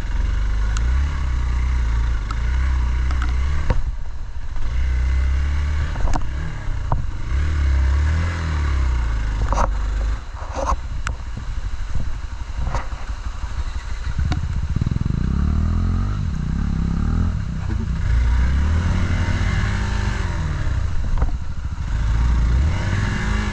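Single-cylinder off-road motorcycle engine being ridden over a rough trail, its revs rising and falling with the throttle. Several sharp knocks and clatter are heard along the way.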